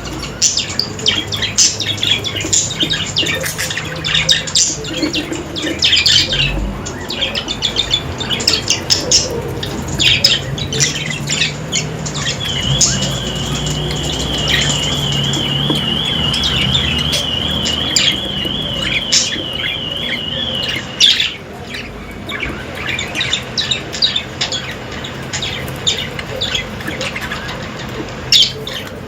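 Budgerigars chattering, with many short chirps and squawks. For about eight seconds in the middle, one steady, evenly wavering high trill runs over the chatter, then stops abruptly.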